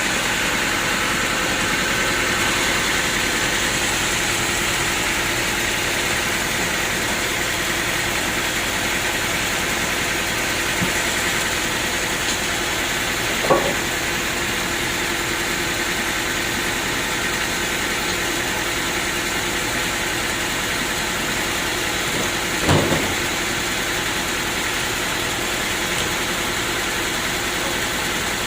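Sawmill machinery running steadily, an engine-driven drone, with two brief knocks about halfway and about three quarters of the way through.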